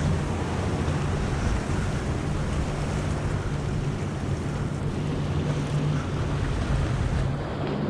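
Ocean surf breaking and washing onto the beach, with wind rumbling steadily on the microphone.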